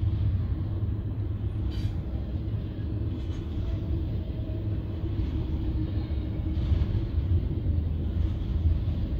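Double-stack intermodal freight train rolling past, its well cars' wheels making a steady low rumble on the rails, with a sharp click about two seconds in and a few fainter clatters after.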